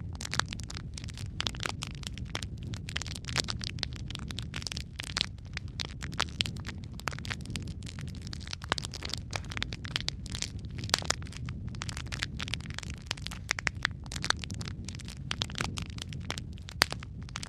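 Logs burning in a fireplace: a steady low rumble of flame with dense, irregular crackling and occasional louder pops.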